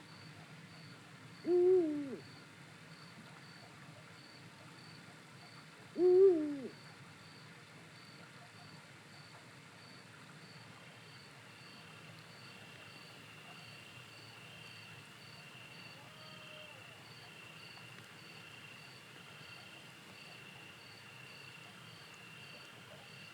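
Eurasian eagle owl hooting: two deep single hoots about four and a half seconds apart, each under a second long, over steady, faint cricket chirping.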